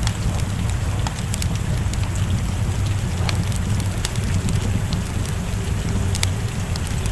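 Wood fire crackling with scattered sharp pops over steady rain, with a steady low rumble underneath.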